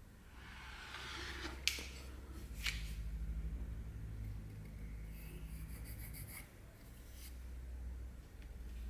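Rubbing and handling noises, with two sharp clicks about a second apart early on, over a low steady hum.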